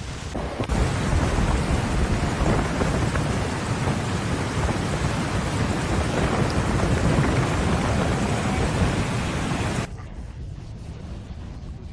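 Heavy rain pouring steadily with a deep low rumble underneath, typical of a storm downpour. It cuts off abruptly near ten seconds in, leaving a fainter hiss.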